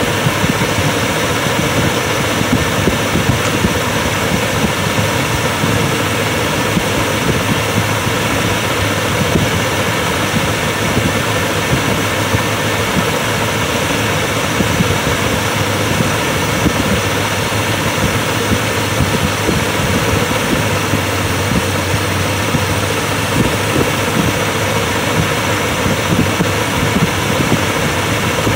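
Carbureted engine idling steadily, with a Gunson Colortune glass spark plug fitted in one cylinder and its fuel mixture screw set back to the original setting that gave a blue flame, the sign of a correct fuel/air mixture.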